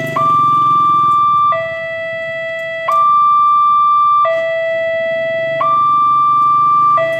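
Railway level-crossing alarm sounding: an electronic two-tone signal switching back and forth between a lower and a higher tone about every one and a half seconds, very high-pitched, warning that a train is approaching.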